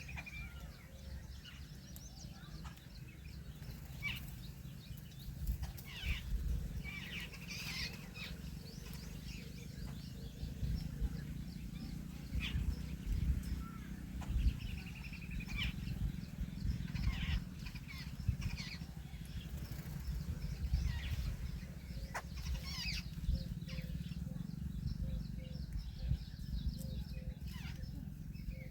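Birds calling in short, scattered chirps and calls over a steady low rumble.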